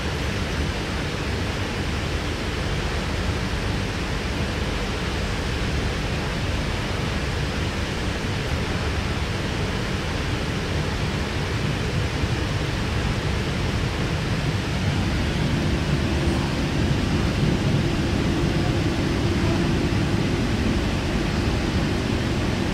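Steady running noise heard inside a K-set double-deck electric train carriage in motion: a continuous rumble and rush of the wheels on the rails. About two-thirds of the way through, a steady hum joins in and the noise grows slightly louder.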